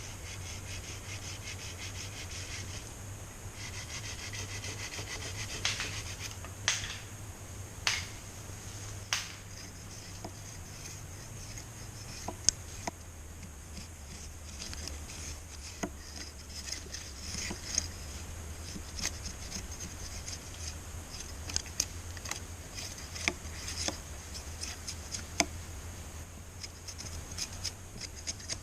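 Wood being scraped and rubbed, with scattered sharp knocks and ticks of handling, over a steady high chorus of jungle insects. A fast pulsed insect trill sounds through the first several seconds.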